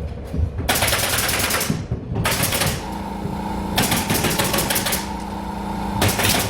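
Power tool driving fasteners in rapid bursts of clicking, four or five bursts, with a steady machine hum underneath from about halfway through.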